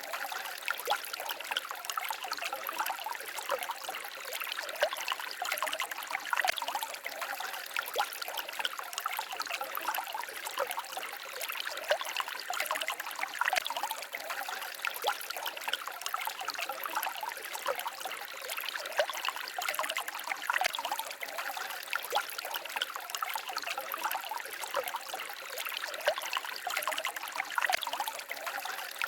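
Small forest stream babbling and trickling over stones: a steady, close water sound full of small splashes and gurgles.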